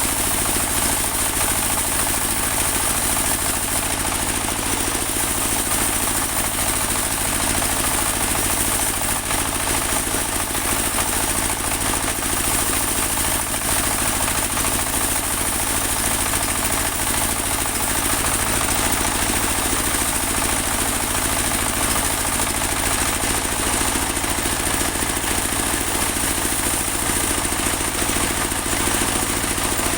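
Portable band sawmill running steadily, its engine giving an unbroken drone with a constant high whine above it.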